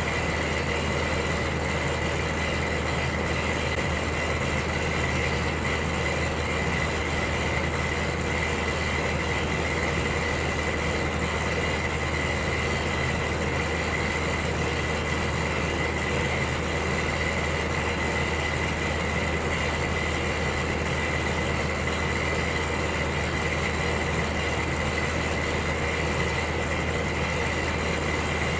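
Electric heater running steadily: an even fan rush with a constant low hum and a faint steady high whine.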